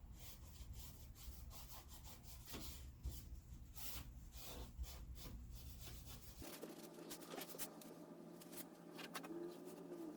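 Faint rubbing and scratching sounds. About two-thirds of the way through the background changes abruptly, and a faint low warbling call follows near the end.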